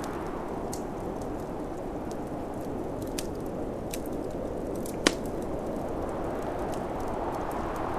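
Wood fire crackling with scattered sharp pops, one louder pop about five seconds in, over a steady low rush of snowstorm wind.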